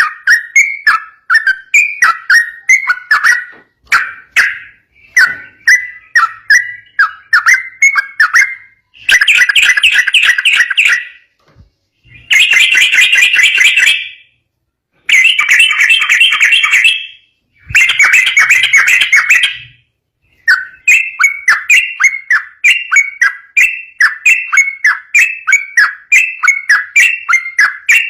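Yellow-vented bulbul (trucukan) singing a long, rapid run of bubbly, repeated phrases. In the middle stretch come four blocks of dense, fast chattering, each a couple of seconds long, broken by sudden short gaps.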